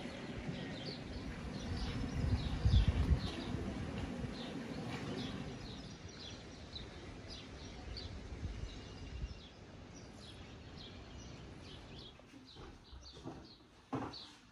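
Small birds chirping over and over, short high calls about two a second, over a steady outdoor hiss. A low rumble swells about two seconds in, and a sharp knock sounds near the end.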